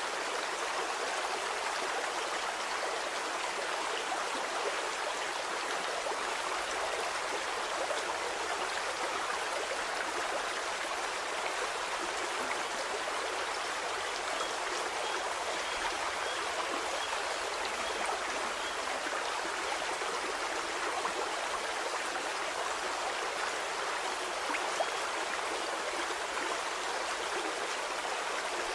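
Stream water flowing steadily over rocks, an even splashing rush with little low rumble.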